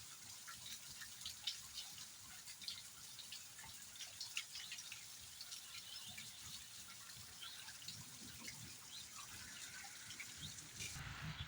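Rain falling: a soft, even hiss with many separate drops striking close by. Near the end the hiss shifts and grows brighter.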